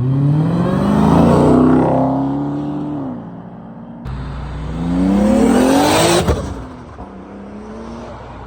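Car engine revving hard twice: the pitch climbs, holds and falls away, then after a sudden cut it climbs again and drops off abruptly a little after six seconds in.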